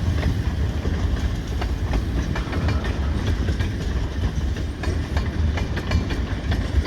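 Loaded freight cars rolling slowly past: a steady low rumble of wheels on rail with irregular clicks and clacks as the wheels cross rail joints.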